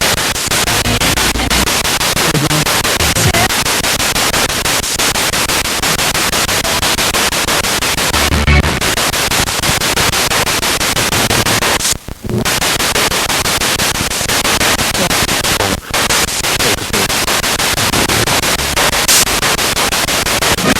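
Spirit box radio sweeping rapidly through stations: loud, continuous static chopped into short pieces, with brief snatches of broadcast sound between the hiss. It cuts out briefly about twelve seconds in and again near sixteen seconds.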